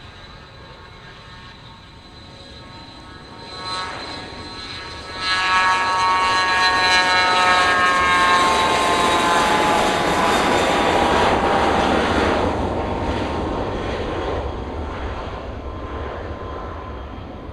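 Business jet taking off and passing close by at full power. Its engine roar comes up suddenly about five seconds in, with a whine that slides down in pitch as it goes past, then fades away.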